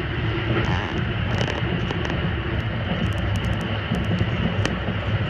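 Haruka airport express train running at speed, heard from inside the carriage: a steady low rumble of wheels on the track, with scattered light clicks and rattles over it.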